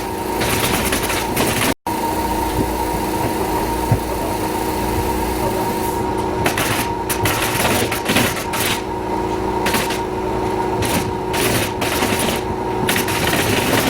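A machine running with a steady hum, with irregular short clatter and knocks over it.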